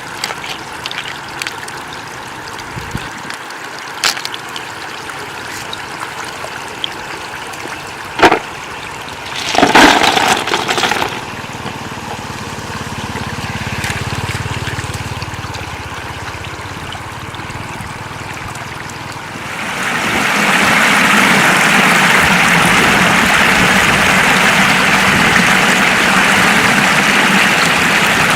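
Floodwater trickling and flowing steadily, with a few sharp clicks and a brief louder burst about ten seconds in. About twenty seconds in, the sound swells into a louder, steady rush of water.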